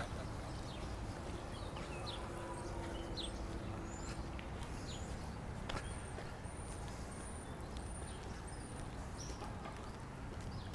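Small birds chirping over a steady low hum of city background, with a run of five short, high, evenly spaced notes about two-thirds of the way through.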